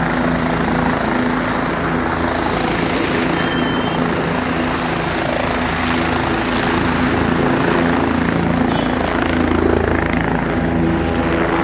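Helicopter running steadily: loud, constant rotor and engine noise with a steady low hum.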